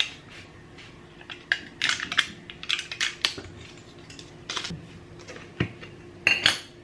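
Utensils clinking and tapping against a dish as ingredients are added. The taps come irregularly, with a louder couple of knocks near the end.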